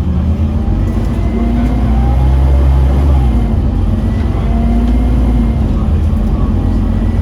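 Scania CN230UD OmniCity double-decker bus engine pulling hard under acceleration, its pitch climbing and then dropping back twice as the automatic gearbox changes up, with a faint high whine throughout.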